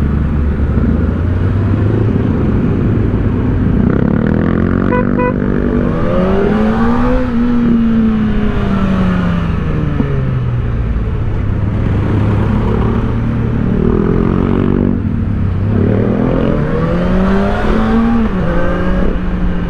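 Kawasaki Ninja ZX-4RR's inline-four engine running through its stock muffler while riding: the engine note climbs about five seconds in, falls away slowly, drones low and steady, then climbs again near the end before settling. A short run of quick beeps sounds about five seconds in.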